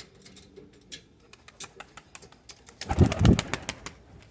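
Domestic pigeons cooing softly, then a loud flurry of wing flapping about three seconds in as birds take off.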